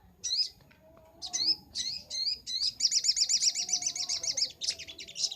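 Little spiderhunter (sogok ontong) singing: separate sharp, high chirps, then about halfway through a fast run of repeated notes, about ten a second, lasting a second and a half, then more chirps.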